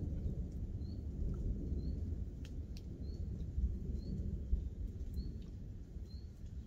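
A bird repeating a short, high chirp about once a second over the low, steady rumble of a heavy rainstorm, with a few sharp ticks.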